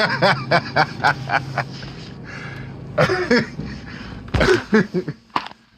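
Men laughing in short, rapid bursts, then more brief voice sounds, over a steady low hum.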